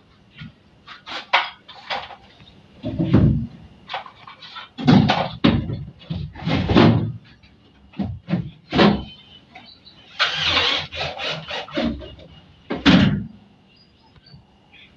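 A run of irregular knocks and bangs, some heavy and some light, with a longer scraping hiss about ten seconds in.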